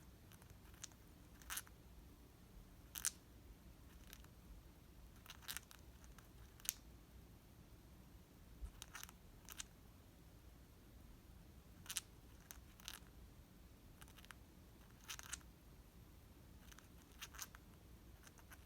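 Pet bird cracking and grinding its beak: short, sharp clicks and crunches, singly or in quick little runs, every second or few, over near silence. Beak grinding like this is the sign of a content bird drifting off to sleep.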